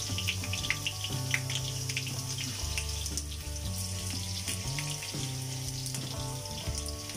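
Potato cubes frying in hot oil in a nonstick pan, a steady sizzle with many small crackles. Background music with low sustained notes plays underneath.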